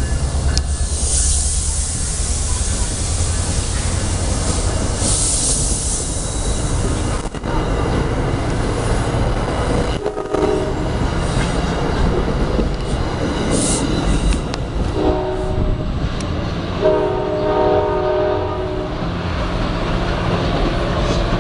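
NJ Transit passenger coaches rolling past close by, with steady rail and wheel noise. In the second half a train horn sounds several separate blasts as a train approaches a grade crossing.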